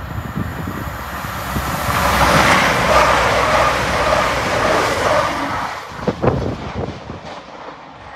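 A diesel train passing through a station, its engine and wheel noise building to a peak and then fading away, with a few sharp knocks about six seconds in.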